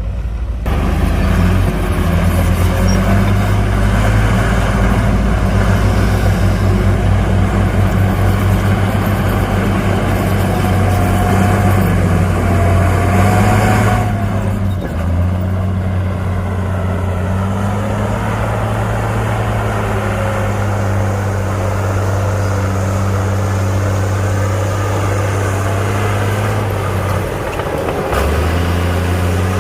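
Heavy diesel engine of earthmoving machinery running hard with a steady deep hum. It drops off briefly about halfway through, then settles back and picks up again near the end.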